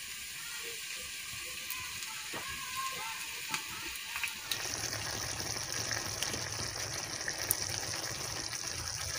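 Chicken curry sizzling and bubbling in a steel kadhai: a steady hiss with a few faint clicks, turning fuller and a little louder about halfway through.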